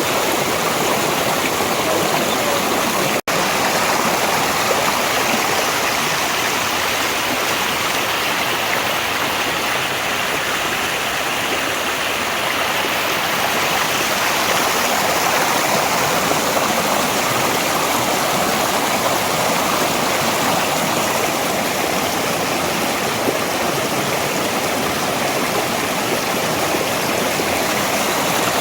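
Mountain valley stream flowing steadily, an even, loud water noise that cuts out for a split second about three seconds in.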